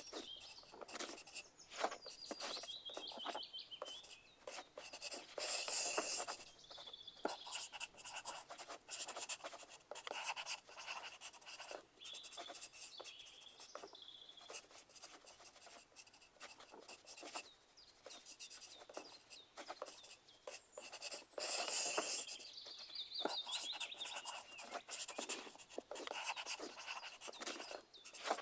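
Pencil writing on paper: an irregular, continuous run of short scratching strokes, with two louder, longer scratching stretches about five seconds in and again near 22 seconds.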